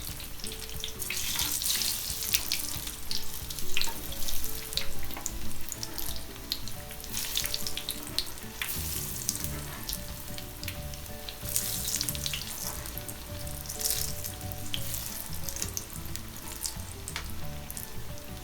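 Besan-battered potato chops (aloo chop) deep-frying in hot oil: a continuous crackling sizzle with sharp spits and pops, loudest a few seconds in.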